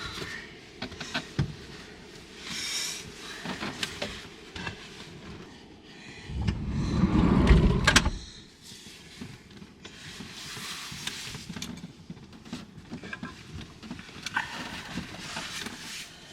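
Rustling and handling sounds inside a small van's cabin, scattered clicks, and one louder rumbling thud lasting more than a second about six seconds in that ends in a sharp click.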